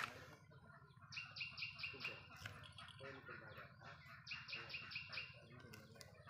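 A bird calling in two quick runs of short, high chirps, about seven a second, each run lasting about a second.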